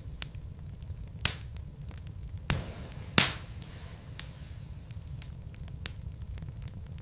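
Wood fire burning in a fireplace: a steady low rumble with sharp crackles and pops from the logs, three louder pops about a second apart near the middle.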